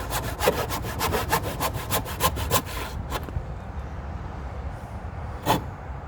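Hand saw cutting through wood in quick back-and-forth strokes, about four or five a second, that stop about three seconds in. One more single stroke or knock follows near the end.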